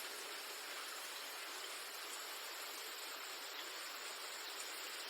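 Faint, steady hiss of light rain, with a thin steady high tone above it.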